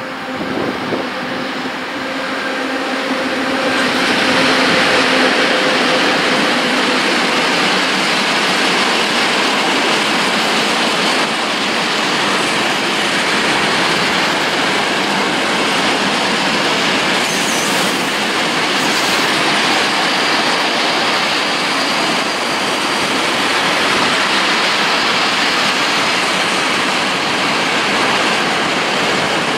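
Freight train of open coal wagons, hauled by an ET22 electric locomotive, rolling past close by: a loud, steady rush of wheel and rail noise that builds over the first few seconds and then holds. A steady hum sounds at first and fades out after about seven seconds.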